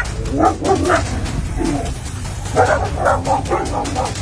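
A dog barking and yipping in two quick flurries, about half a second in and again about two and a half seconds in, over a steady low rumble.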